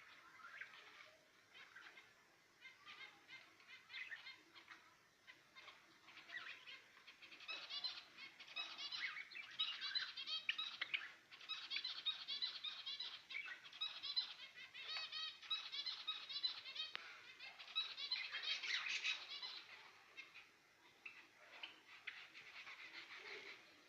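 A flock of budgerigars chattering with quick, overlapping high chirps and warbles, sparse at first, then thick and busy from about seven seconds in, thinning again near the end.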